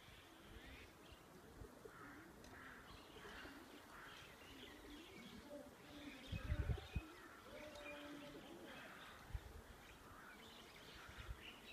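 Small birds chirping faintly and repeatedly, with a single low thump about six and a half seconds in.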